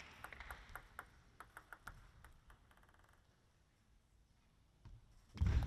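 Sharp ticks of a celluloid-type table tennis ball striking paddle and table, scattered over the first couple of seconds and fading into near silence. Loud crowd noise breaks in suddenly near the end.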